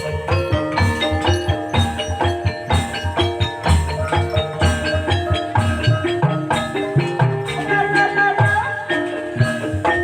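Banyumas gamelan accompaniment for ebeg: mallet-struck keyed instruments playing a busy, quickly changing melody over a steady low drum pattern.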